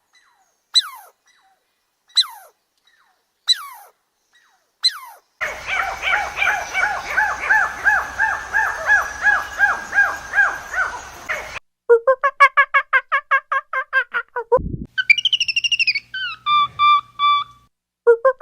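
Several different animal calls cut one after another. First come four or five sharp falling whistles about a second and a half apart, then a fast run of repeated chirping notes over a hiss, then rapid pulsed calls, and near the end a short warbling call that steps down in pitch.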